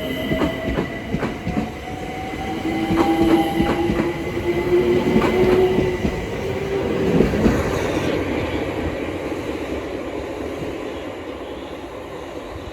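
London Overground Class 378 electric train pulling out and accelerating: its motor whine rises slowly in pitch while the wheels click over rail joints, then the sound fades away over the last few seconds.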